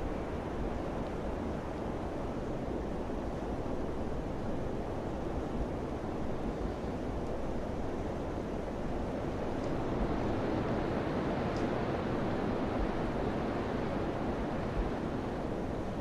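Steady rushing wind, swelling a little about ten seconds in.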